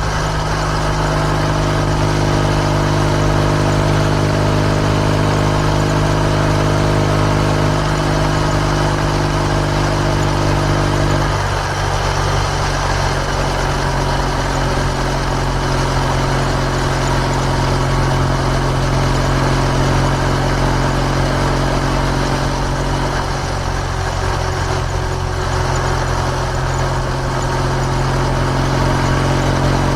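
Kawasaki W650's air-cooled parallel-twin engine running through an R's Gear Wyvern Classic aftermarket muffler at a steady engine speed while riding. The engine note shifts slightly about eight seconds in and changes again at about eleven seconds.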